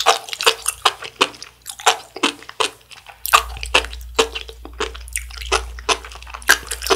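Close-miked mouthful of sea grapes being chewed, with wet popping, crunching clicks a few times a second as the little beads burst.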